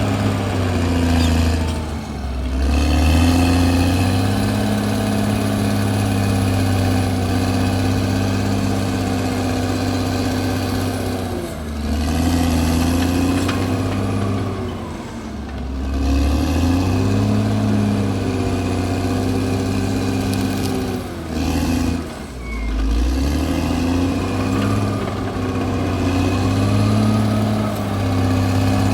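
CAT D6R bulldozer's diesel engine running hard. Its pitch sags and comes back up about four times (near 2 s, 12 s, 15 s and 22 s in), the engine lugging down under load as the blade pushes and then recovering.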